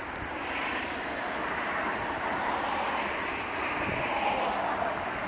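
Strong gust of wind rushing through trees and shrubs, a steady noisy rush that builds about a second in and stays loud.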